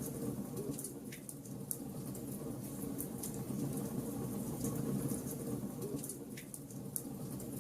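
Log fire crackling, with sharp pops every second or so over a steady low rush of the burning wood.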